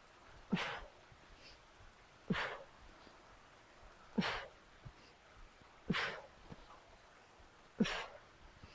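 A woman's sharp, forceful breaths out during an exercise, five of them at an even pace about every two seconds. Each opens with a brief voiced catch and then a short rush of air.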